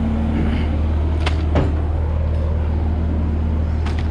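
An engine running steadily at a constant low drone, with a few sharp clicks or knocks, two about a second and a half in and one near the end.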